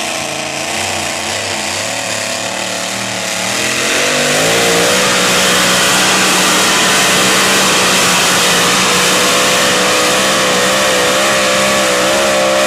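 John Deere 4320 Pro Stock pulling tractor's diesel engine running at full throttle under load as it drags the sled, its pitch wavering. About four seconds in, the engine climbs higher and louder and then holds there.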